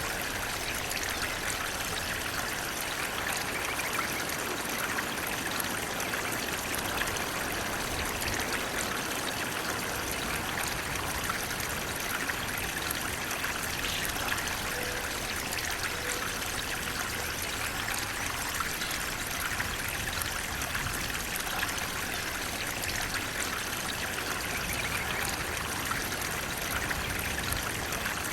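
Water flowing steadily over rocks, with a continuous trickling and splashing.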